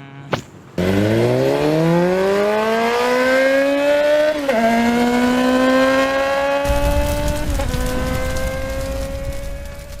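A motor vehicle's engine accelerating hard, its pitch rising steadily, with two brief dips where it shifts up a gear, about four and a half and seven and a half seconds in.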